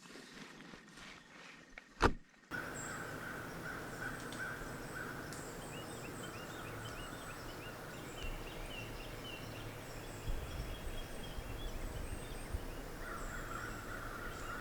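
Birds calling and chirping over a steady outdoor hiss, after a single sharp click about two seconds in.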